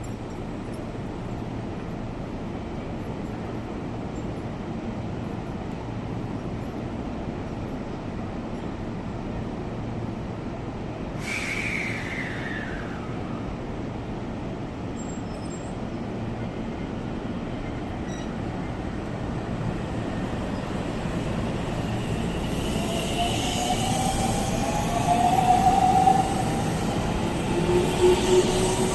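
Electric commuter train pulling out of a station: a steady low running rumble, a short falling tone about 11 seconds in, then from about 22 seconds the traction motors' whine rising in pitch as the train accelerates, growing louder near the end.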